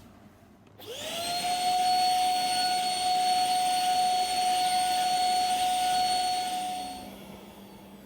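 Handheld UV mattress vacuum cleaner switched on for vacuuming a carpet. Its motor whines up to speed about a second in and runs with a steady high whine over rushing air, then winds down and stops near the end.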